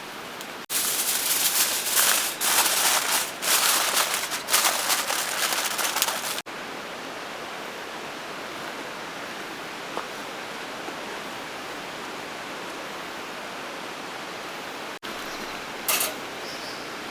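A steady rushing hiss of water in the background. About a second in, several seconds of loud, irregular rustling begin, then stop abruptly.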